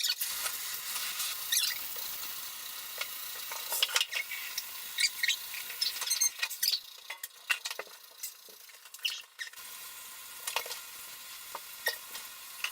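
Running water spraying during a dog's bath, a steady hiss with scattered short squeaks and clicks.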